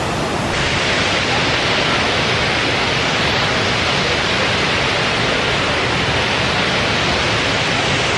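Ho'opi'i Falls waterfall rushing: a loud, steady wash of falling water.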